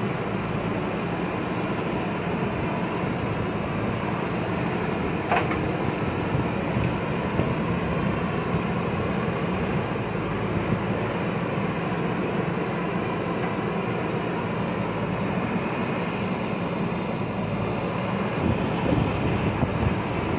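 JCB backhoe loader's diesel engine running steadily under working load while digging, with a brief whine about five seconds in.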